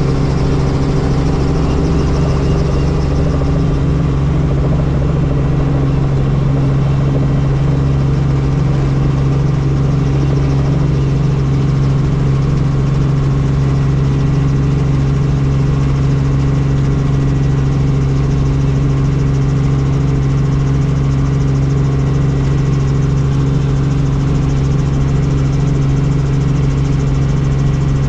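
Helicopter running steadily: a loud, constant drone with a strong low hum that does not change.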